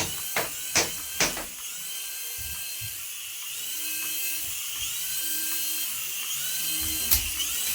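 Small electric motor of a remote-control toy whining at high pitch, spinning up and down over and over so that the pitch rises and falls, with a few sharp clicks in the first second and one near the end.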